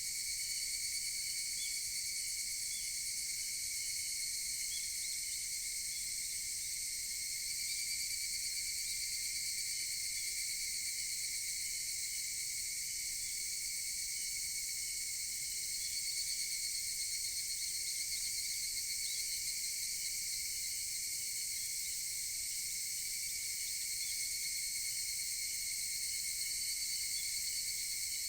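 Steady, high-pitched chorus of higurashi (evening cicadas) singing together without a break.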